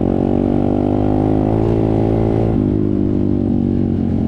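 Off-road motorcycle engine running steadily under way, its note easing off about two and a half seconds in.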